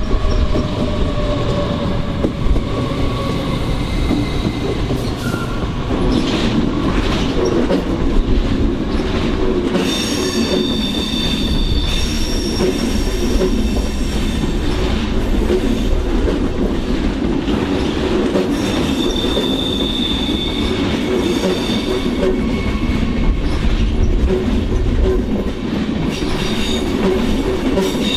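A train rolling past close by with a steady rumble of wheels on rails. From about ten seconds in, high steady wheel squeal comes and goes several times.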